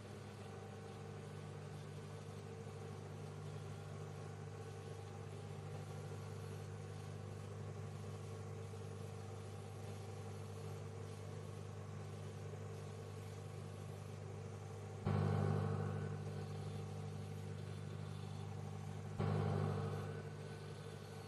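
Microwave oven running with a steady low hum. Twice, about 15 and 19 seconds in, the hum suddenly grows louder and then eases back down over a second or so.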